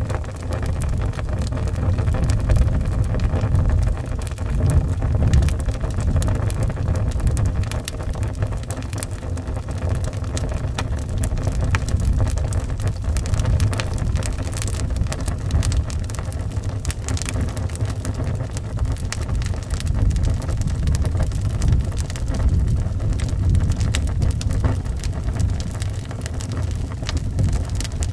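Wood fire crackling with many small sharp pops, over a steady low rush of howling wind that swells and eases.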